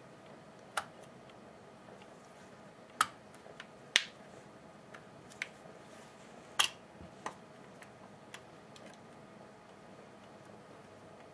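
Scattered sharp clicks and clacks of small hard parts and tools being handled during hand reassembly of a hedge trimmer, four of them loud, about one, three, four and six and a half seconds in.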